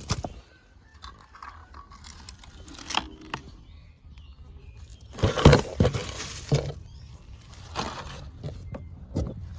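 Scattered clicks and rustling, with a louder burst of crunching and knocking about five seconds in.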